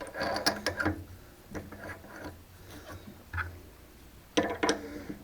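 A machine's cutter plunging a hole into a 4140 steel block, with a faint steady motor hum and irregular clicks and knocks. A sharper cluster of clicks comes near the end.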